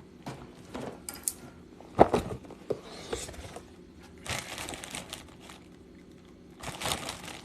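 Plastic lolly packet crinkling as it is handled and opened, in several short rustling bursts, with a sharp knock about two seconds in.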